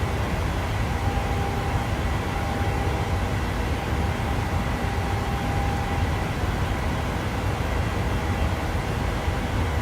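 Steady in-flight noise inside a Boeing 737-800: a low rumble of airflow and the CFM56 turbofan engines, with faint steady tones over an even hiss.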